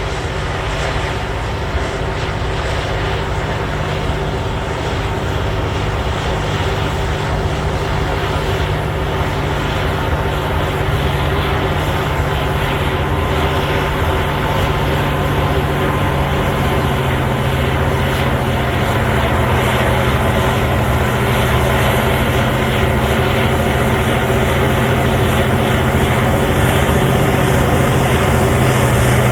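Caterpillar D9L bulldozer's V12 diesel engine running steadily, a continuous deep drone. Its pitch drops a little about halfway through while it grows slightly louder.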